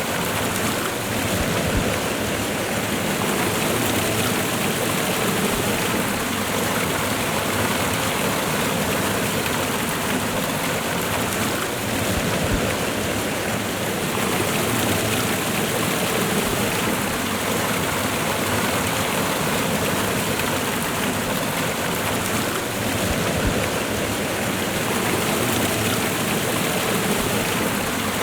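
Waterfall and fast-running river water, a steady, even rush with no let-up.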